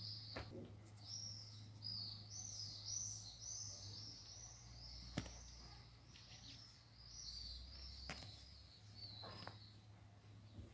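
Faint bird chirping: a quick run of short, high, arched chirps, several a second, through most of it. A few sharp clicks and a low steady hum lie under it.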